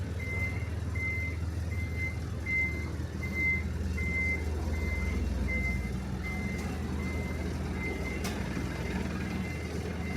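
Truck reversing alarm beeping evenly, about four beeps every three seconds, over the truck's engine running.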